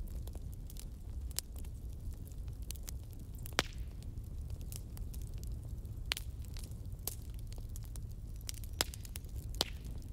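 Wood fire burning, with irregular crackles and a few sharper pops over a steady low rumble of the flames.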